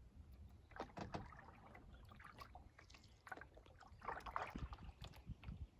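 Faint canoe paddling: quiet splashes of paddle strokes in the water with a few light knocks.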